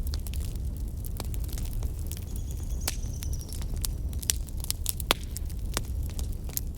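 A fire crackling, with frequent sharp, irregular pops over a steady low rumble. A faint high whistle sounds briefly a little before the middle.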